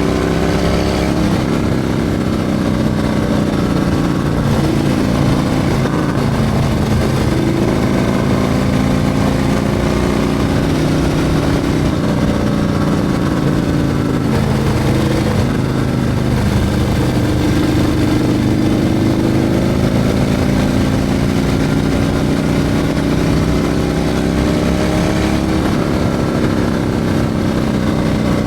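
Harley-Davidson Milwaukee-Eight 114 V-twin fitted with a Screaming Eagle 447 torque cam, running under way. Its engine note rises and falls several times as the throttle opens and closes.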